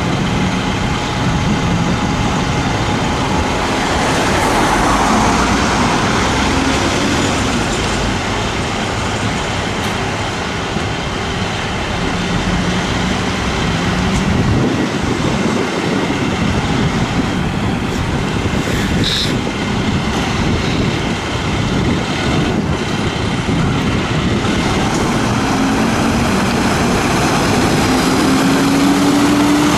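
City road traffic: motor vehicles driving past, with an engine accelerating and rising in pitch near the end.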